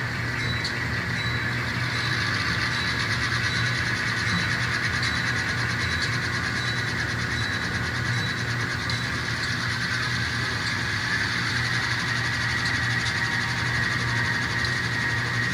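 Sound-equipped N scale model diesel locomotives, a GP38-2, a GP15 and GP39-2s, playing a steady diesel engine sound through their small on-board speakers, with faint even ticking.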